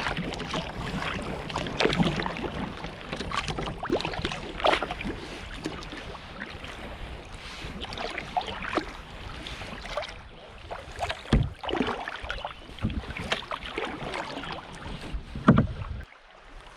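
Kayak paddle strokes dipping and splashing in lake water at an irregular pace over a steady wash of water and wind noise. The noise drops away suddenly near the end.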